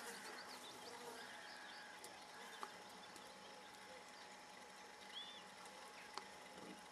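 Faint outdoor ambience with scattered, distant bird calls and chirps.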